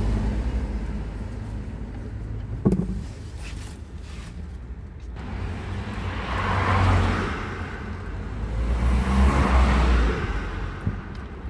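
Car noise: a steady low rumble that swells and fades twice, with a sharp click a few seconds in.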